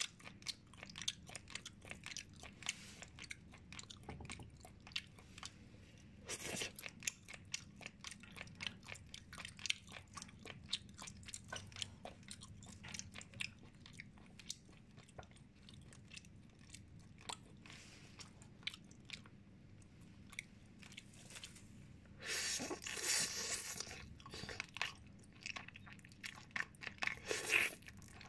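Close-miked eating sounds: a person chewing and biting steamed chicken, with many small wet clicks and crunches. A louder, denser stretch of noise comes about 22 seconds in.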